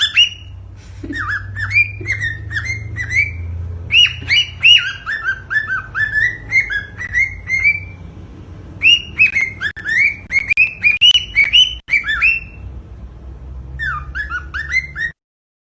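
Cockatiel singing: fast runs of chirping whistles in phrases broken by short pauses, over a low steady hum, cutting off abruptly near the end.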